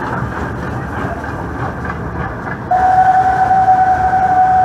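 Passenger coaches behind a Beyer Garratt steam locomotive rumbling and clicking past over the rails. About two and a half seconds in, the locomotive's whistle starts a long, steady single note that holds.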